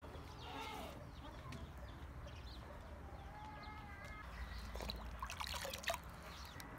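Faint bird chirps, with one held call about three seconds in and a few light clicks near the end.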